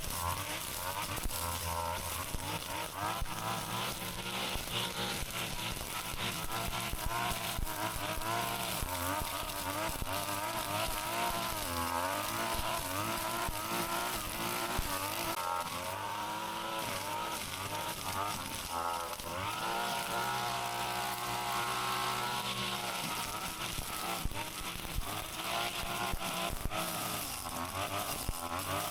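Brush cutter's small engine running steadily, its pitch wavering up and down.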